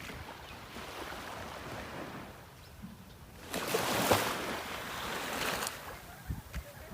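Sea waves washing in, with wind buffeting the microphone; one wave surges in louder about halfway through and falls away.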